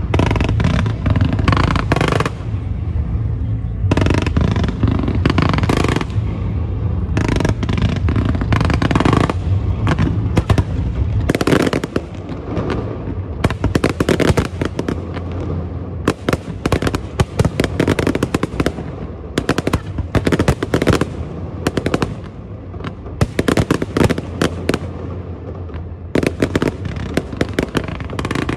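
Aerial fireworks going off in rapid, almost unbroken volleys of sharp cracks and bangs, with a heavy low rumble under them for roughly the first half.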